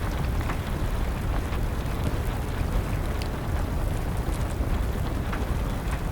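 Wood fire crackling with scattered sharp pops over a steady wash of rain and a low, even rumble.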